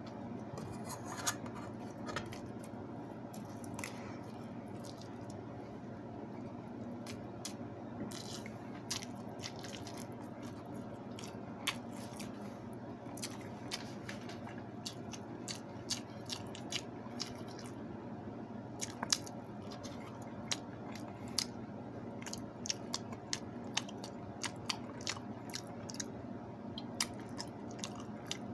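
Close-up eating sounds: chewing and mouth clicks, with many short, sharp clicks scattered throughout as rice, fried eggplant and fried fish are eaten by hand. A steady low hum runs underneath.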